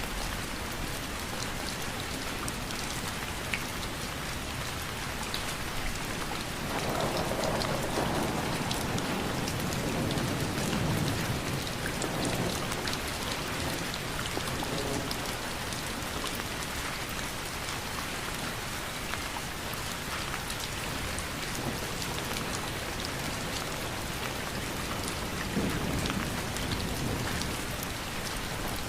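Steady rain falling, with low rolls of thunder building about seven seconds in and again near the end.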